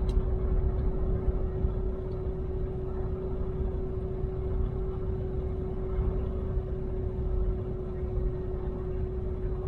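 Ford F-250 Super Duty's 6.7-litre diesel engine running slowly, heard from inside the cab as a steady low rumble with a constant hum over it.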